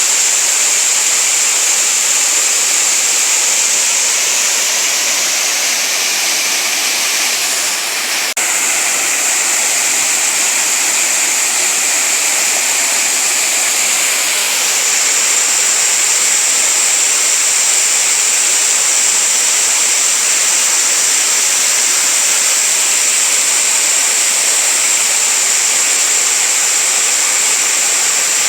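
Waterfall pouring into a rocky stream: a steady, unbroken rush of falling water, bright and hissy.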